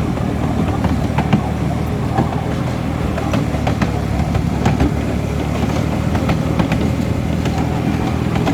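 Electric miniature park train running, heard from on board: a steady low rumble of the wheels on the track, with frequent irregular clicks and clacks.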